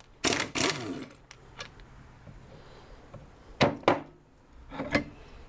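Metal tools clinking and knocking against the chainsaw engine's metal parts during hand work: a pair of sharp clinks right away, two more about three and a half seconds in, and one near the end.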